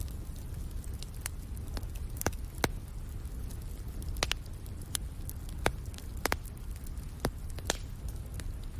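Wood fire crackling in a fireplace: irregular sharp pops and snaps over a steady low rumbling hiss.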